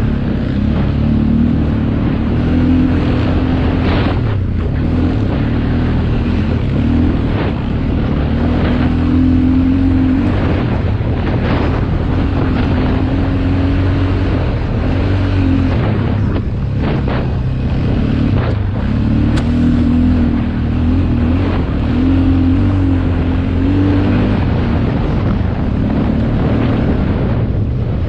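Motocross motorcycle engine running hard, its pitch rising and falling again and again as the throttle is opened and closed, with wind buffeting the microphone.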